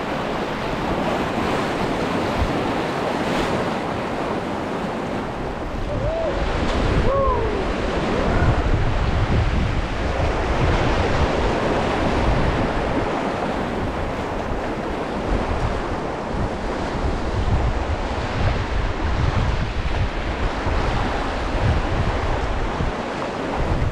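Whitewater rushing and splashing around a raft running a rapid, a loud steady roar of moving water with wind buffeting the microphone.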